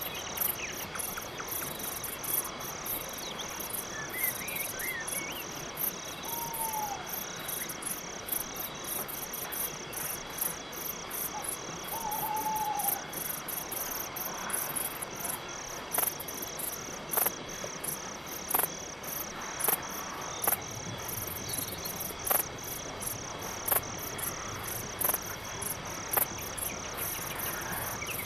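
Night forest ambience of crickets chirping in a steady, even pulse, about two to three chirps a second. A couple of short calls sound in the first half, and several sharp clicks stand out in the second half.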